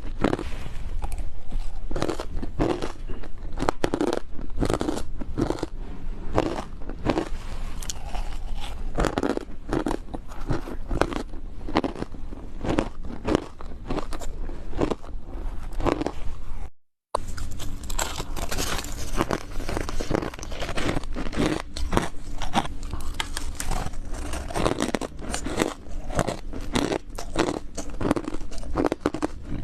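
Close-miked ice being bitten and crunched between the teeth, one crisp crunching bite after another in quick succession. The sound drops out completely for a fraction of a second about halfway through.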